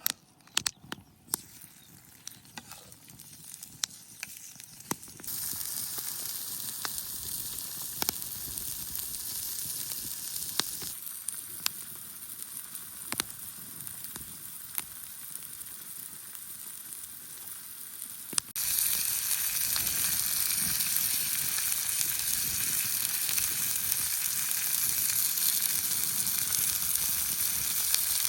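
Burger meat sizzling on a hot stone over a campfire: a few light clicks and knocks at first, then a steady sizzle that starts about five seconds in and grows clearly louder about two thirds of the way through.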